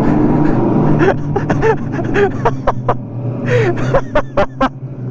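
Go-kart motor running steadily under the driver, with sharp knocks and rubbing from a body-worn microphone and a few short vocal sounds.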